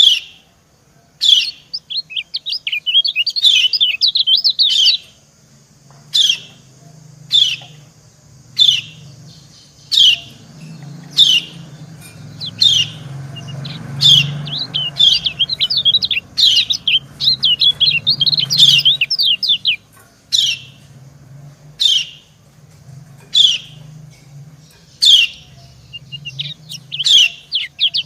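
Yellow white-eyes (kecial kuning) calling. A female gives short, sharp 'ciak' calls about every second and a half, answered by long bursts of rapid twittering song from a male.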